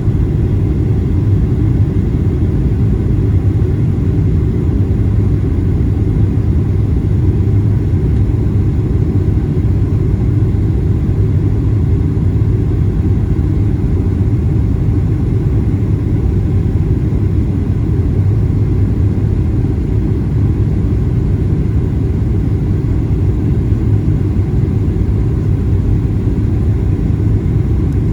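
Steady low rumble of a Boeing 737-800 airliner, heard from inside the cabin, with no change in level.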